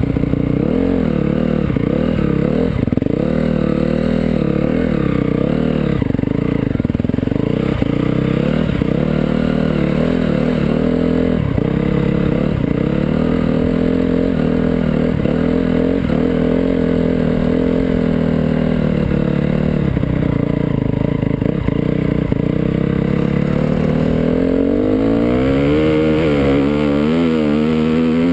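Motocross bike engine running under constant throttle changes, rising and falling in pitch as it revs up and backs off around a muddy track, with quicker blips and rises near the end. Heard from a rider-mounted camera.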